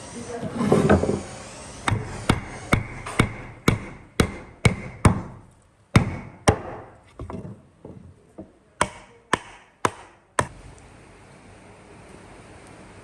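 Hammer or mallet blows on wood, a run of about sixteen sharp strikes at roughly two a second that stops about ten seconds in. Just before the strikes there is a short, louder scraping noise.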